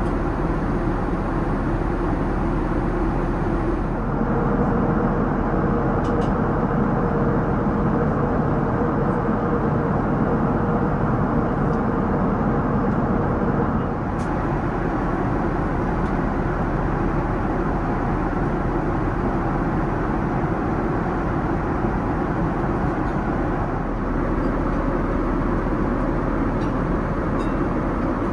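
Steady rushing cabin noise of a Boeing 787-9 airliner in flight, from the engines and the airflow. It steps slightly louder or quieter a few times, and a faint steady hum sits under it for a stretch near the start.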